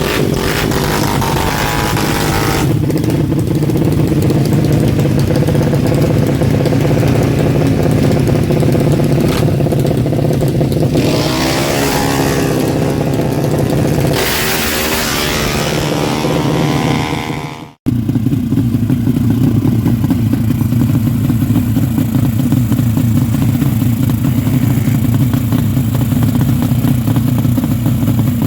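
Honda Karisma motorcycle's single-cylinder four-stroke engine running steadily at a constant speed, with the sound cutting out for an instant about eighteen seconds in.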